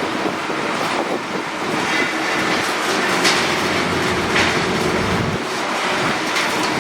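Heavy demolition machinery at work on a building: a steady rumbling clatter with irregular sharp clanks and crunches.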